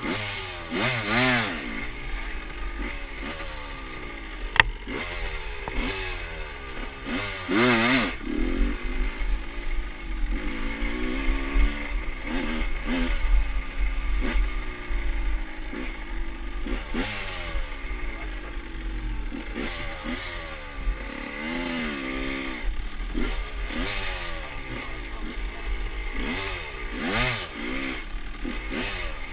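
Small carbureted motorcycle engine being ridden, its pitch rising and falling again and again as the throttle is opened and closed, with a sharp click about four and a half seconds in.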